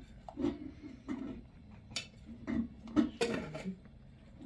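Scattered light knocks and clinks of dishes and kitchen utensils being handled, about half a dozen irregular strikes.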